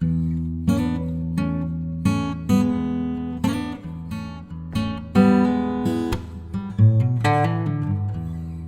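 Background music: acoustic guitar being strummed and plucked, with a new chord or note about every half second.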